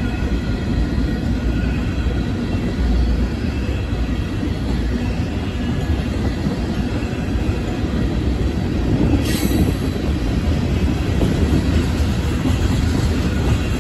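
Freight train tank cars rolling past: a steady rumble of steel wheels on rail, with a faint high wheel squeal. A brief sharp sound comes about nine seconds in.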